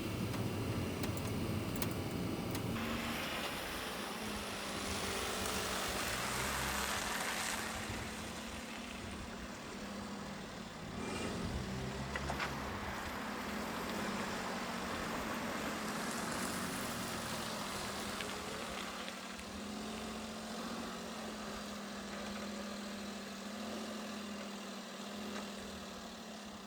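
Mini-truck engine running with a steady hum, under rushing noise that swells and fades several times.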